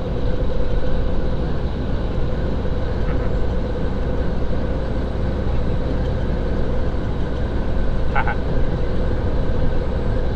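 Steady low rumble of a semi-truck's engine and road noise heard inside the cab while driving, with a constant hum. A brief, short higher-pitched sound about eight seconds in.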